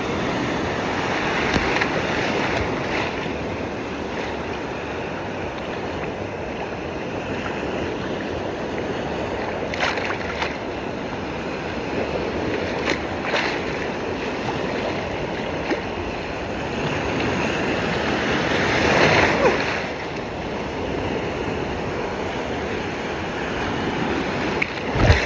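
Storm waves breaking on a beach: a continuous rushing surf, with one larger wave swelling and crashing about nineteen seconds in.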